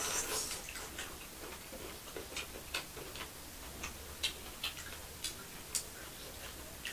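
Close-up eating sounds: a crunchy bite into fresh cucumber slices right at the start, then chewing with scattered sharp, irregular mouth clicks and smacks.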